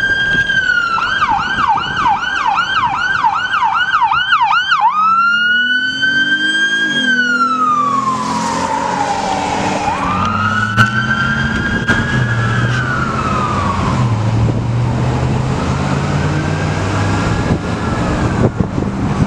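Police siren on a California Highway Patrol Dodge Charger running Code 3. It starts on a fast yelp of about three sweeps a second, then switches about five seconds in to a slow wail that rises, holds and falls every few seconds. A lower engine note runs underneath from the switch onward.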